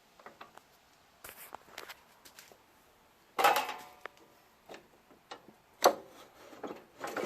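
Metal parts of a snowblower's friction-wheel drive being handled: small clicks and taps, a loud clank with a short ring about three and a half seconds in, and a sharp knock near six seconds.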